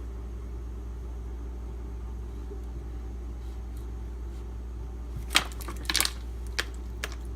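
A steady low hum, then from about five seconds in a few sharp clicks and knocks: sharpening gear, a water stone and knife, being handled and set down on the bench.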